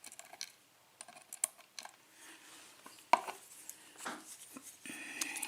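Small metal clicks and taps of a gutted Yale-type pin tumbler cylinder's top pins and springs being handled and straightened with a tool, with one sharper click about three seconds in. A steady hum starts near the end.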